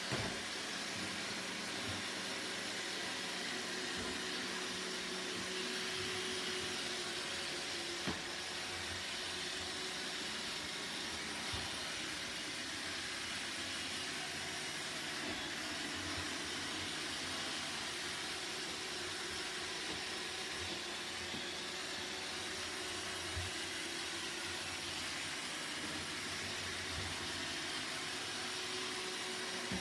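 Roomba robot vacuum running: a steady whirring hiss of its motor and brushes, with a few brief knocks scattered through it.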